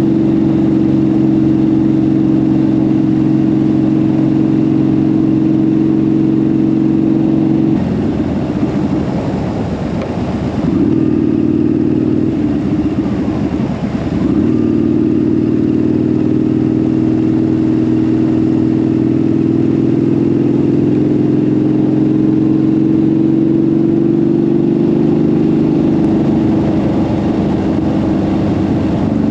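Motorcycle engine running at a steady pitch; about eight seconds in the note breaks up and swoops as the throttle and gears change, then settles back to a steady pitch that slowly rises.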